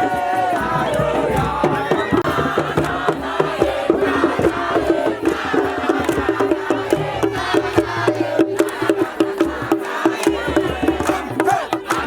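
A group of voices chanting and singing together over quick, rhythmic percussion.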